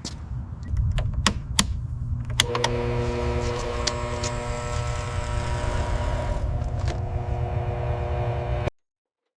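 A few sharp clicks over a low rumble, then a steady mechanical hum with a fixed pitch that cuts off suddenly near the end.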